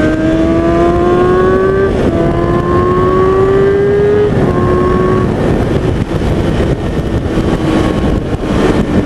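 Kawasaki ZX-6R 636 inline-four sportbike engine accelerating hard, its pitch climbing, then dropping sharply at about two seconds and again at about four seconds as it shifts up a gear each time. Over the last half the engine note fades under a steady rush of wind on the helmet microphone.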